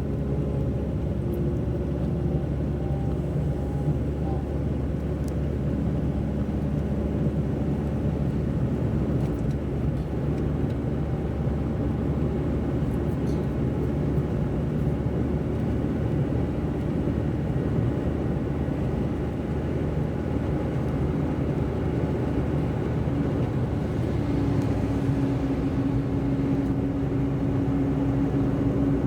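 Steady running noise of a car driving on city roads: a continuous low rumble of engine and road. A steady hum joins a few seconds before the end.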